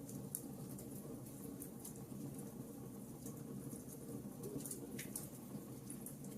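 Wood fire in a fireplace crackling: scattered small pops and ticks at irregular intervals over a steady low background.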